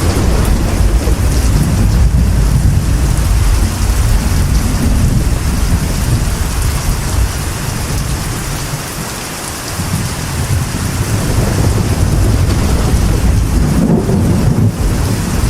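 Steady rain on a metal roof under a continuous deep rumble of thunder. The rumble eases a little around the middle and builds again near the end.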